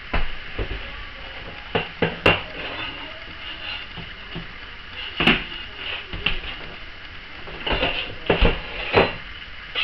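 Laminate flooring and its transition track being worked loose: irregular sharp knocks and clicks scattered throughout, the loudest about two, five and eight to nine seconds in.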